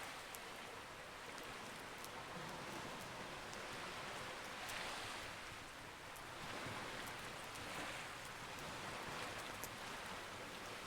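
Campfire crackling with scattered small, sharp pops over a steady wash of sea waves that swells twice.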